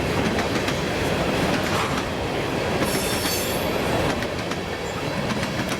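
Empty covered grain hopper cars of a freight train rolling past, wheels clicking over the rail joints, with a brief high wheel squeal about three seconds in.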